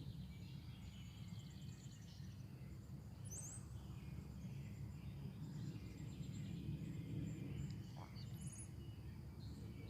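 Small songbirds chirping and trilling in short, high-pitched runs, with a couple of quick rising sweeps, over a steady low background rumble.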